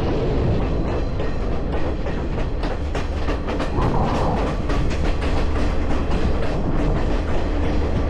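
Train running on rails with a steady low rumble, and a run of rapid clicks in the middle stretch.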